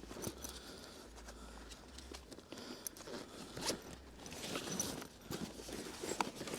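Quiet, irregular rustling and scraping with light clicks: handling and movement noise, with no motor running.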